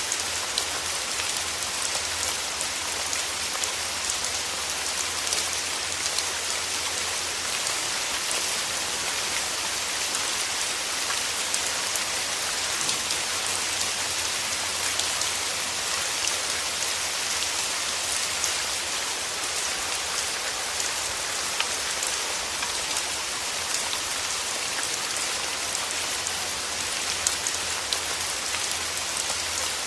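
Steady rain falling on rose petals: a dense, even patter of small drops with sharper ticks scattered through it.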